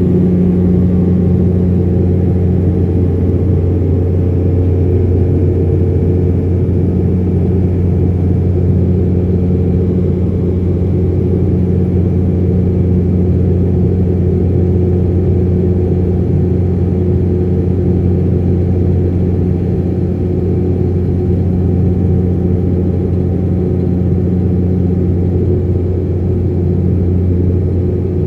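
Cabin noise inside a De Havilland Dash 8-400 turboprop airliner during takeoff and climb: a loud, steady propeller drone with a strong low hum and its overtones over engine and air noise.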